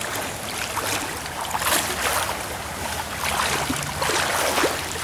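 Water sloshing and splashing as people wade through a flooded creek, over the steady rush of the current.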